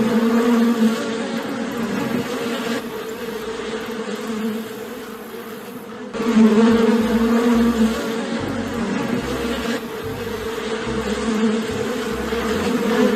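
Insect buzzing: a steady, fairly loud drone that changes abruptly about three and six seconds in, where the recording is spliced.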